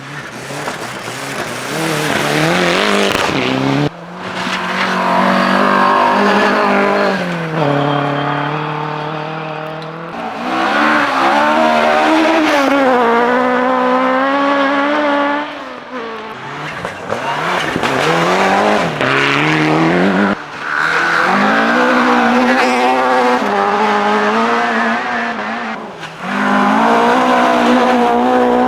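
Rally car engines at full throttle on a forest gravel stage, the pitch climbing and dropping over and over through gear changes and lifts, with several abrupt breaks in the sound.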